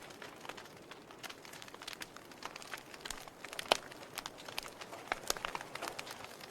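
Wood logs burning in a fireplace, crackling with irregular sharp snaps and pops over a soft hiss, one louder pop about midway.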